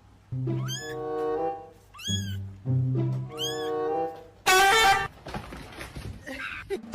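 A cat meowing three times, each call rising and falling in pitch, over background music, with a short, louder burst about halfway through.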